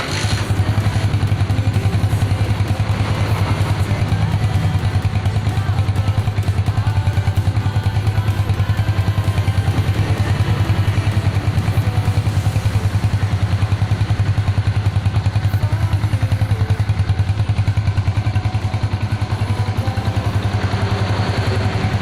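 Yamaha Vixion's single-cylinder four-stroke engine idling steadily with a rapid, even pulse, running on freshly filled Shell Helix HX7 Plus 5W-40 oil.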